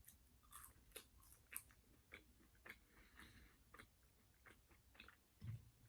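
Faint close-up chewing of fries dipped in honey mustard: soft crunches and wet mouth clicks, a few a second, in an irregular run.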